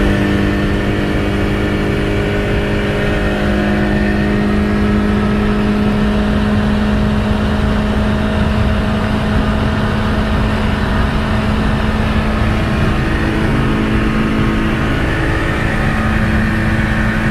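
Tofaş Doğan car running flat out at high speed: a steady engine note held at high revs over a broad, loud rush of noise, easing slightly near the end before settling again.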